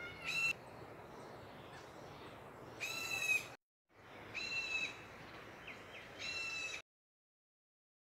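A bird calling four times, each call about half a second long and steady in pitch, over a steady background hiss. The sound drops out briefly just past halfway and stops abruptly near the end.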